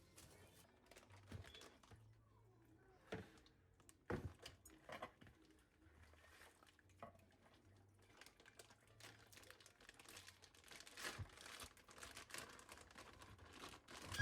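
Faint crinkling and rustling of something being handled, with a few light knocks scattered through it.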